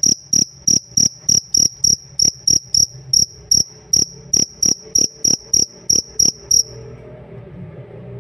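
Pet cricket (jangkrik) chirping: short, sharp, high-pitched chirps about three a second, which stop about six and a half seconds in, leaving a faint low rumble.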